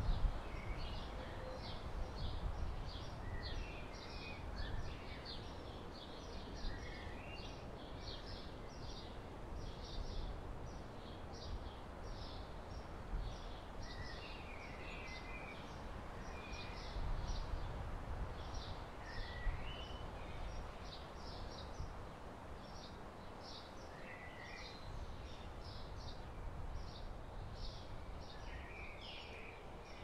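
Wild birds calling: a steady run of short high chirps, about two or three a second, with a few lower warbling phrases now and then, over a low rumble of wind on the microphone.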